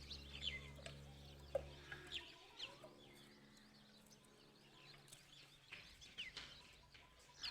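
Faint bird calls: scattered short, quick chirps. A low steady hum runs underneath and drops away about two seconds in.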